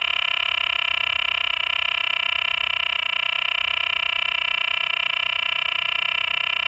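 Physalaemus cicada frog calling: one steady, unbroken buzzy call with a fast flutter, holding the same pitch without a break.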